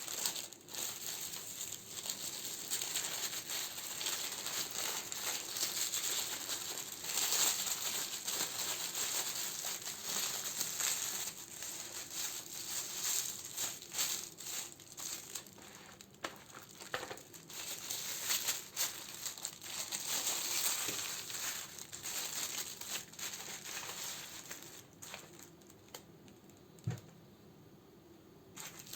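Plastic wrapping and paper crinkling as candles are handled and sorted, a dense continuous crackle that thins out near the end, where a single small knock sounds.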